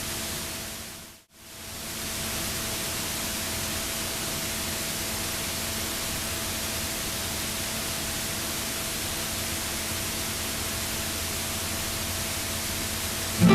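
Steady rushing noise of a moving train heard from inside the carriage, briefly dipping to silence about a second in and then fading back up.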